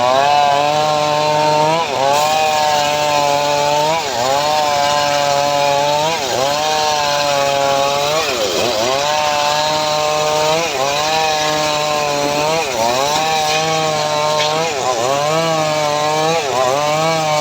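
Chainsaw engine on a homemade srekel saw rig running hard while it cuts teak. Its pitch dips briefly about every two seconds as the cut loads it, then recovers, with one deeper dip about halfway through.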